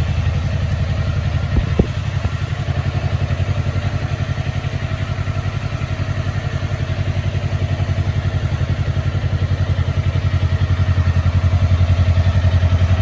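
Kawasaki Ninja 250 (EX250P) 248 cc parallel-twin engine idling steadily, with two short knocks about two seconds in. It grows slightly louder toward the end.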